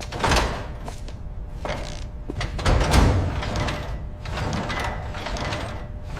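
Metal clanks, scrapes and thuds of mechanical car-restoration work, with a heavy thud about a third of a second in and another about three seconds in.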